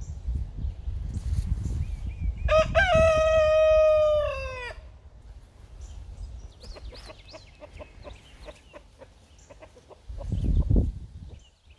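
A rooster crowing once, a single drawn-out call of about two seconds that drops in pitch at the end, followed by faint short clucks. A low rumble of noise is heard under the start and again briefly near the end.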